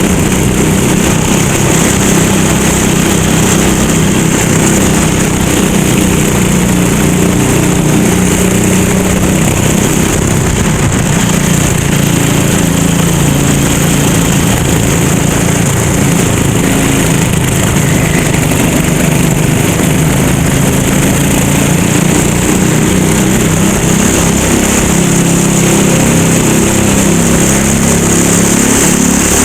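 Racing kart engine running continuously under racing load, its pitch rising and falling again and again as the driver accelerates and lifts through the corners. A steady high hiss runs under it.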